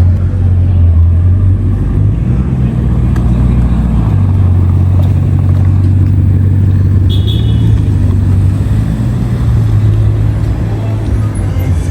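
Bugatti Chiron Sport's quad-turbo W16 engine idling shortly after a cold start: a steady, loud, low drone that shifts slightly in pitch a couple of times.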